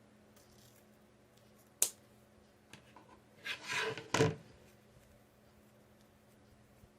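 Handling sounds of a ribbon bow being clipped together: a sharp click, then a short rustle of ribbon ending in a louder snap.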